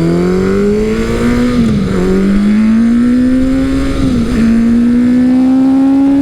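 Big-bore motorcycle engine accelerating hard, its pitch climbing through the revs and dipping briefly at two upshifts, about a second and a half in and again about four seconds in.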